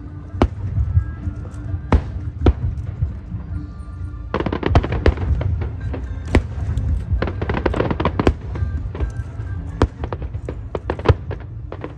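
Aerial fireworks bursting: separate sharp bangs over a low rumble, then from about four seconds in a dense, fast crackling barrage of many bursts. Show music plays underneath.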